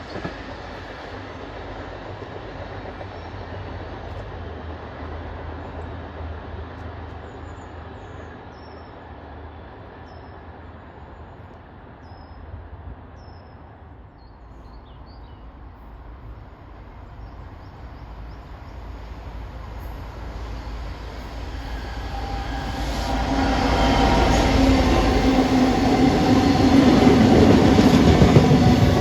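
A train running on the line, a low rumble that grows clearly louder in the last third as it draws near.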